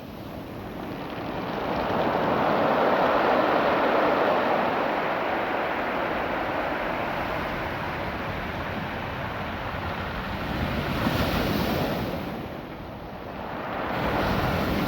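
Ocean waves washing up and back over a beach of small, smooth rounded stones, the water hissing and rattling through the cobbles. The surge swells about two seconds in, and again near the end.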